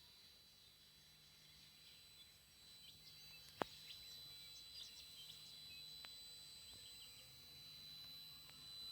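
TriStar TS-MPPT-60 solar charge controller giving a faint, steady high-pitched squeal, with birds chirping and one sharp click about three and a half seconds in.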